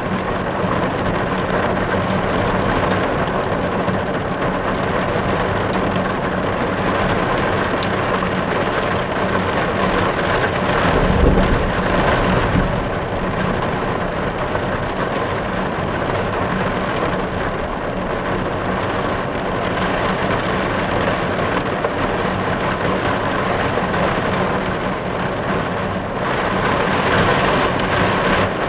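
Steady rain falling on a car's roof and windows, heard from inside the car as a dense, even patter. A low rumble swells briefly about eleven seconds in.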